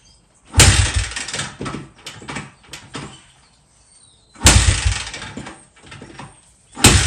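2005 Honda CRF80 being kick-started three times, each a loud thump of the kickstarter with a brief turn of the engine that fades out without catching. The bike won't start, which the owner takes for probably a carb issue.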